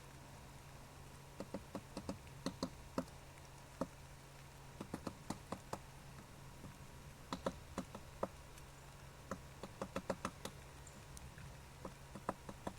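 A bird tapping on the camera housing: irregular clusters of sharp, quick taps with pauses between the clusters, over a steady low electrical hum from the camera.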